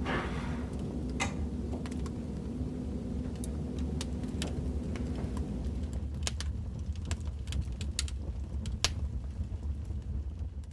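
Recorded fireplace crackling: a steady low rumble of burning logs with irregular sharp pops and snaps.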